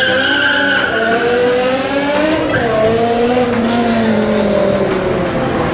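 A car engine held at high revs, loud and continuous, its pitch climbing slightly and then easing back down near the end.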